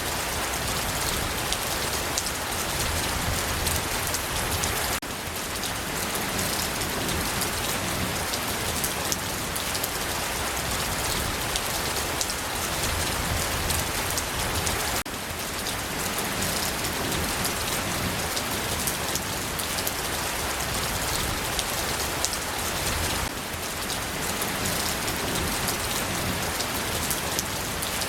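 Steady rain falling on a surface, an even hiss with scattered drop ticks, with slight jumps in level a few times where the recording is joined.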